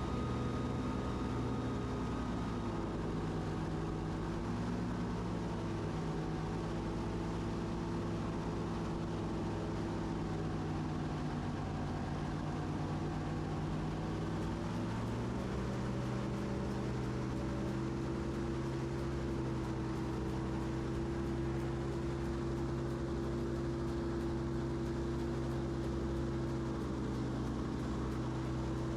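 Airboat engine and big propeller fan running steadily under way, the engine note dropping slightly a few seconds in and rising again about halfway through.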